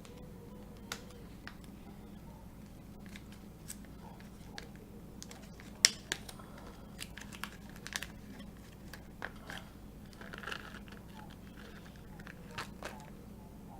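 Packaging of a box of chocolate candies being opened and handled: crinkling, light rustling and scattered small clicks, with one sharper click about six seconds in.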